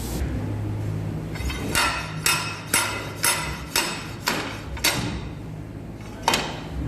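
Hammer striking metal: a run of about eight ringing blows, roughly two a second, then one more after a pause near the end, over a steady low hum.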